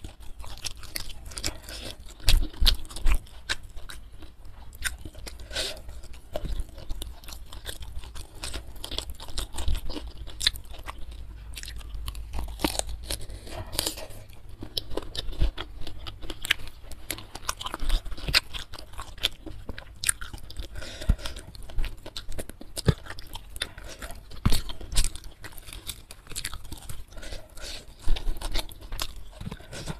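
Close-miked chewing and biting of a fried carp meal eaten by hand, with many irregular crisp crunches and wet mouth sounds.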